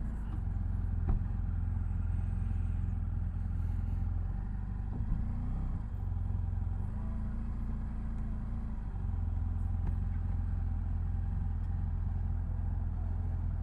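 BMW F800GS motorcycle's parallel-twin engine running steadily at low revs, with small rises and falls in pitch and one sharp click about a second in.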